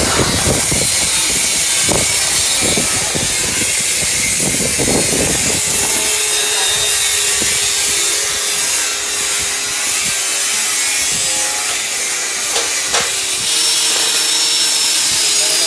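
A power tool working on metal, with a steady motor whine and a harsh high hiss. For the first several seconds it is rough and uneven under contact, then it runs steadier.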